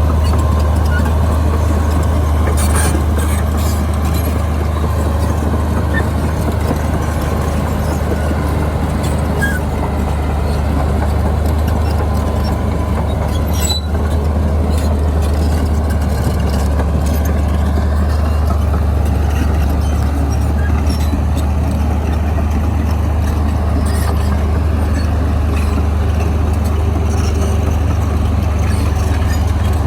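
Bulldozer's diesel engine running steadily under work, a continuous low drone with a few faint clanks along the way.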